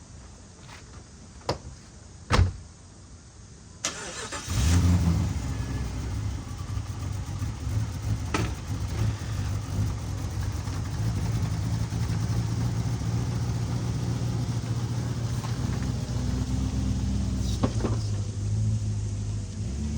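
Jeep engine started: a few clicks and a knock, then the starter turns it over briefly about four seconds in, and the engine catches with a surge and settles into a steady run.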